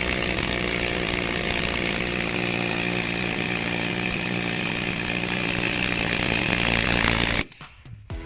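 Handheld power tool running steadily at full speed, then cutting off abruptly about seven seconds in.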